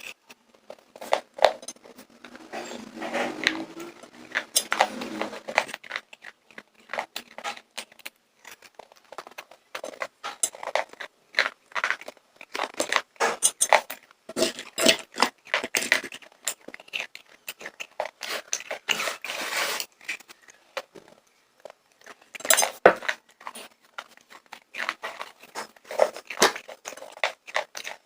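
Popcorn being bitten and chewed close to the microphone: an irregular run of crisp crunches with brief pauses.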